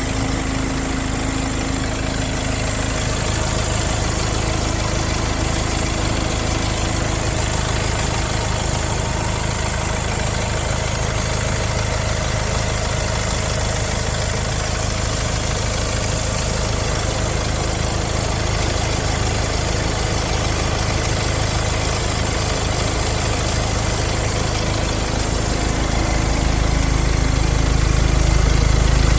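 Hyundai Palisade's 2.2-litre four-cylinder diesel engine idling steadily, growing louder and deeper near the end.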